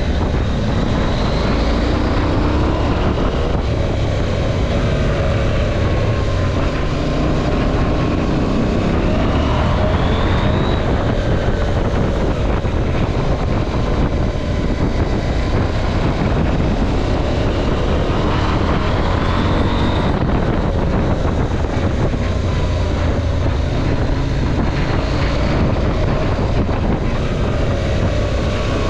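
KTM 790 Adventure's parallel-twin engine pulling hard several times, its pitch climbing and dropping back as it accelerates and eases off, over steady wind rumble on the microphone.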